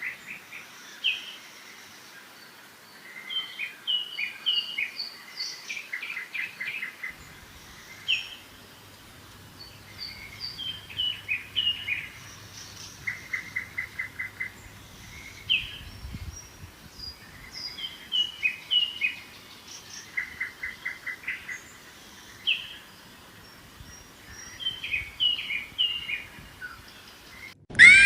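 A songbird singing the same song over and over, every few seconds: a quick trill of short evenly spaced notes mixed with brief higher chirps and whistles.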